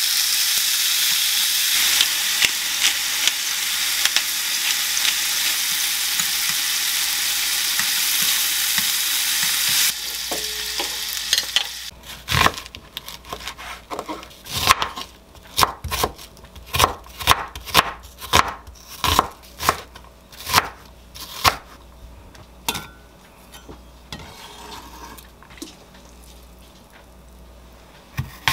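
Sliced duck meat sizzling in a small rectangular frying pan as it is stirred with chopsticks. About ten seconds in, the sizzle stops and a knife chops an onion on a wooden cutting board, with sharp knocks about once a second.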